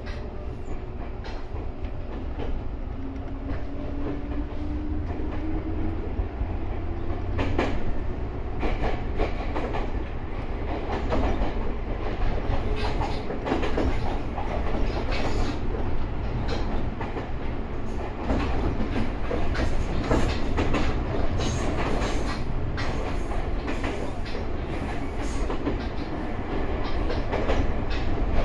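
Ryutetsu 5000 series electric train running along the line, with a faint motor whine rising in pitch a few seconds in as it gathers speed. The wheels then click over rail joints in a rapid clickety-clack that grows denser and a little louder.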